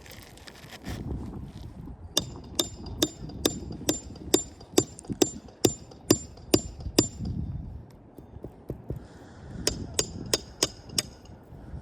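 Hammer driving roofing nails into shingles: a run of about a dozen evenly spaced, ringing strikes at a bit over two a second, then a pause and a shorter run of about five more.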